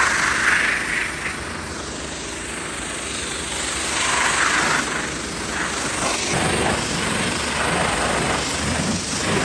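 Car wash machinery running steadily, with loud hissing surges at the start and again about four seconds in.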